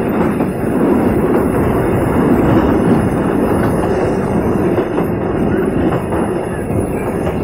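Passenger train running along the track, a steady low rumble of wheels on the rails heard from inside the carriage.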